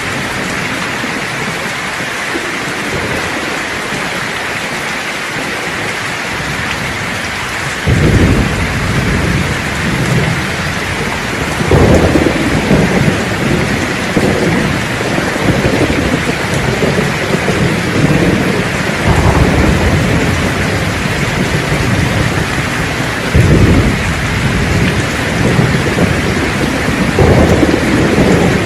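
Thunderstorm: steady rain hiss, joined about eight seconds in by rolling thunder that swells again several times.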